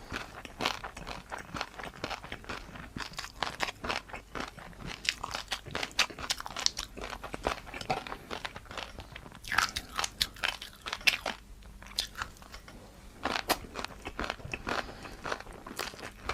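Close-up crunching and chewing of crispy noodles, many sharp irregular crackles from bites in a row, in clusters about ten seconds in and again about thirteen seconds in.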